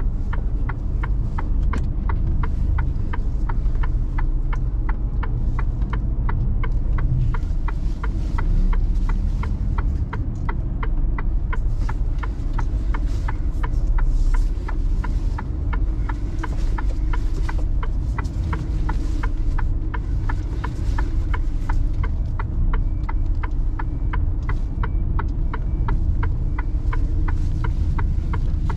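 Mercedes Actros truck's diesel engine running steadily, heard from inside the cab, with a regular sharp clicking about three times a second throughout.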